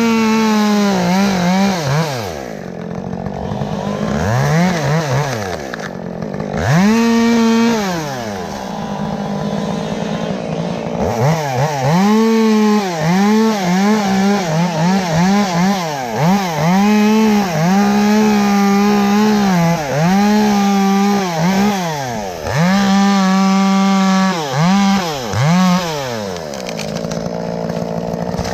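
Chainsaw engine revved up and down over and over, blipped between idle and high revs, with several stretches held at full throttle while cutting wood.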